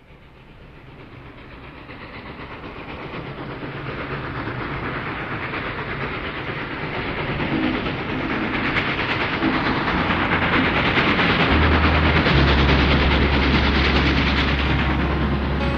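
A train running along the rails, fading in from quiet and growing steadily louder as it approaches. Low sustained notes come in under it for the last few seconds.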